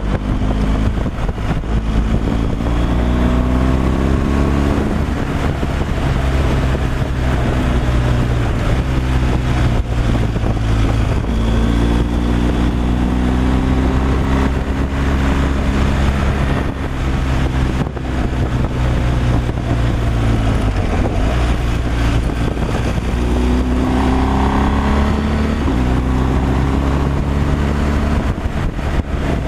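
Heavy truck's diesel engine running under way, its pitch climbing and falling several times as it pulls and shifts, over a steady low rumble of road noise.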